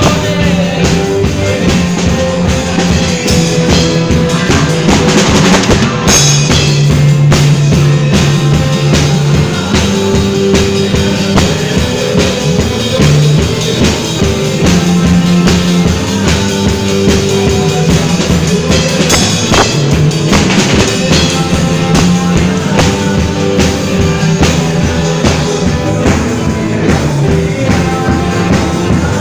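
A band playing an instrumental passage at rehearsal, with a drum kit keeping a steady beat under a moving bass line.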